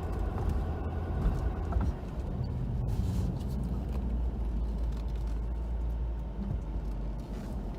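Steady low rumble of a Ford F-250 pickup truck running and moving slowly.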